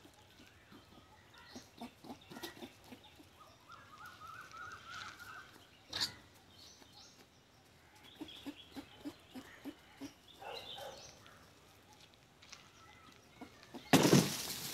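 Birds calling on and off, including a quick run of about six short, evenly spaced notes a few seconds in, with a sharp click around the middle and a loud burst of rustling noise near the end.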